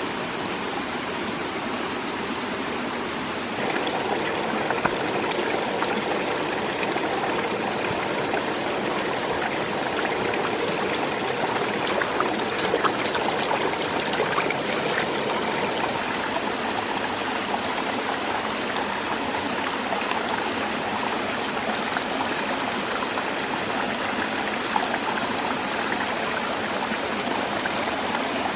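Running water, a steady rushing and trickling like a stream, growing a little louder about three and a half seconds in.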